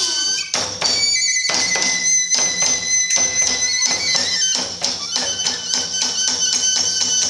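Iwami kagura ensemble music: a high bamboo flute holding long notes over fast, steady drum and hand-cymbal strikes.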